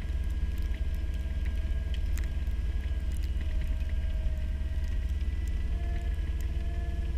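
Cat skid steer loader's diesel engine running steadily under load, a deep constant drone with steady higher tones over it, heard from the open cab. The owner says the engine has a bad injector and is down on power.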